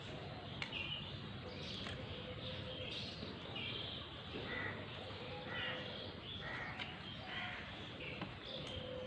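Crows cawing, with other birds calling, many short calls one after another.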